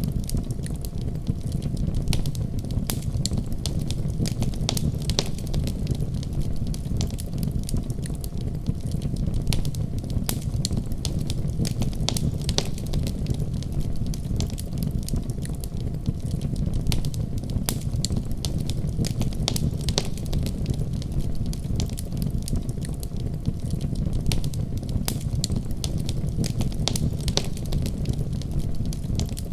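Wood fire burning in a fireplace, a steady low rumble of flames with frequent sharp crackles and pops throughout.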